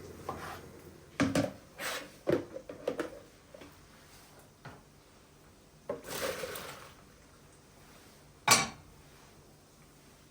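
Kitchenware being handled: a quick run of knocks and clinks of dishes and utensils, a short rushing noise a few seconds later, then one loud sharp clack.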